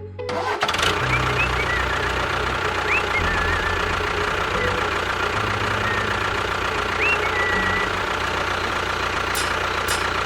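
Tractor engine running steadily with a low chugging note, starting about half a second in. A few short whistled chirps sound over it.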